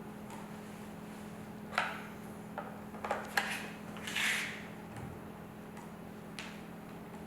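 Scattered clicks and knocks of a hand screwdriver and hardware being handled while fastening a speaker kit into a motorcycle lid, with a short scraping rustle in the middle, over a steady low hum.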